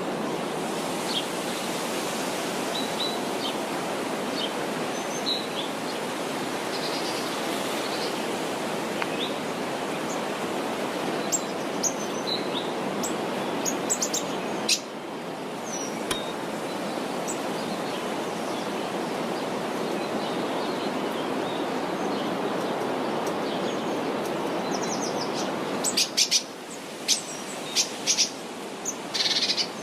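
Small birds chirping in short high calls over a steady rushing outdoor background noise, with a quick run of sharp high chirps near the end.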